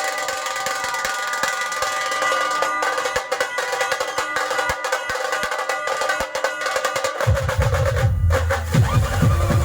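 Procession band playing a dhol-tasha 'train sound' rhythm: a fast rattling drum roll over held steady keyboard tones, with heavy bass drum beats coming in about seven seconds in and a brief break just after.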